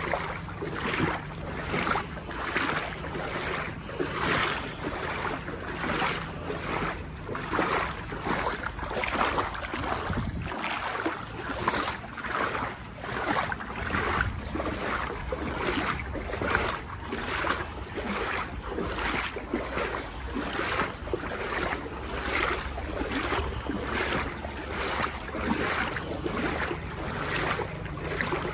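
Legs wading through knee-deep floodwater: a swish and slosh of water with each stride, in a steady walking rhythm of about one step every three-quarters of a second. A low rumble of wind on the microphone runs underneath.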